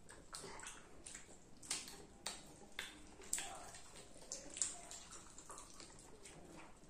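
Close-miked chewing and wet lip-smacking from children eating popcorn, with irregular crunches and smacks.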